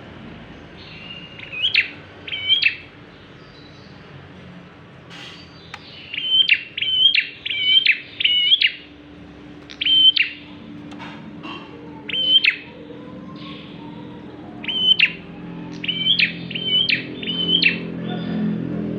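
A prenjak klawu, a prinia, calling: about a dozen short, sharp, high chirps, some single and some in quick runs of three or four.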